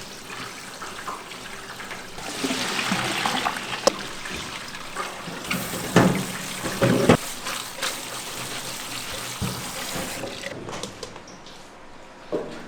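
Running, trickling water, with a few sharp knocks and clatters of kitchenware.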